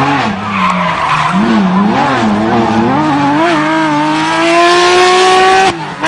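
Porsche 911 GT3 rally car's flat-six engine running hard: the revs rise and fall several times, then climb steadily as the car accelerates, and cut off abruptly near the end. Tyre noise runs underneath.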